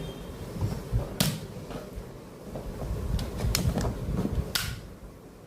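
Toy dinosaur shooter being handled, giving three loud, sharp snaps about a second or more apart, with smaller clicks and rumbling handling noise between them.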